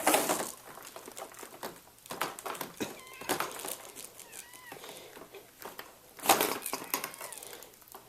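Short bursts of scraping and rustling as dirt and dust are pushed about into a pile, loudest at the start and again about six seconds in. A few faint short high calls, rising and falling, sound in the middle.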